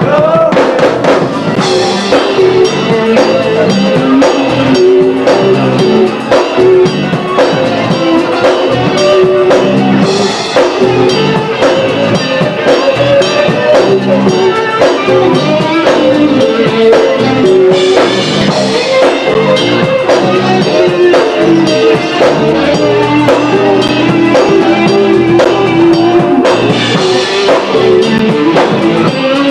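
Instrumental band music with no singing: a drum kit keeping a steady beat under guitar and bass, with a cymbal swell roughly every eight seconds.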